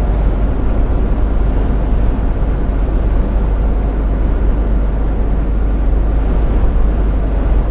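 Steady, loud low rumble of a truck on the move heard inside the cab: engine drone mixed with tyre and wind noise.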